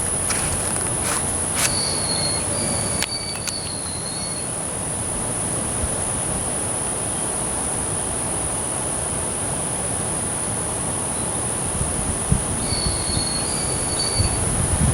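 Steady high-pitched drone of insects over a rushing outdoor noise, with a few short chirps near the start and again near the end.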